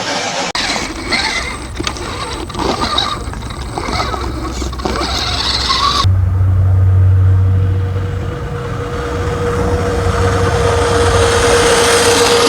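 Redcat Gen 8 RC crawler truck with a brushless motor driving, its tyres and drivetrain crunching and clicking over rough ground. About six seconds in the sound changes abruptly to a steady low hum with a thin whine that grows louder near the end.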